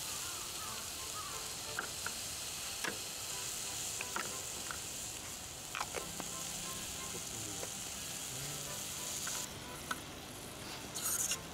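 Chopped tomatoes with minced onion and garlic sizzling in an aluminium camping pot, with scattered sharp clinks of a metal spoon against the pot. The sizzle drops off about nine and a half seconds in, as the spoon stirs the mixture.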